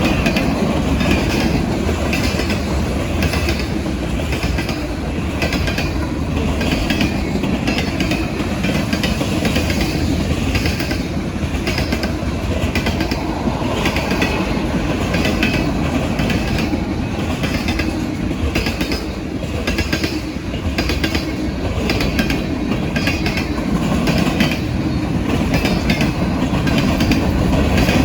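Norfolk Southern freight cars rolling past: a steady rumble with wheels clicking over rail joints in an even, repeating rhythm.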